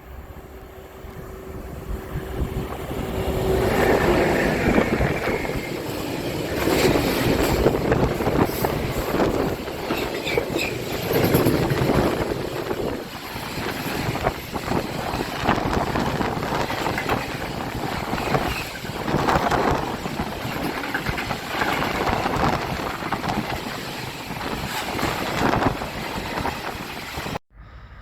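A train passing close by on the line: the noise builds over the first few seconds, then a long run of wheel and rail clatter that rises and falls as each car goes by, cutting off suddenly near the end.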